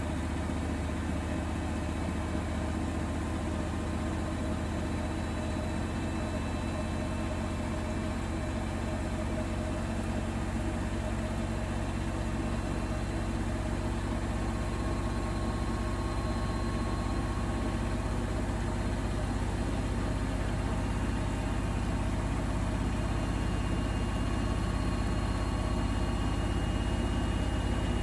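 Bosch Serie 4 WAK20260TR front-loading washing machine running mid-cycle: a steady low hum with faint whining tones above it, slowly getting louder.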